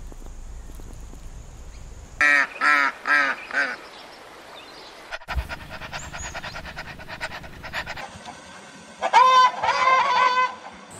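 Domestic waterfowl calling in loud, nasal honks: a quick run of four calls about two seconds in, then another run of several calls near the end.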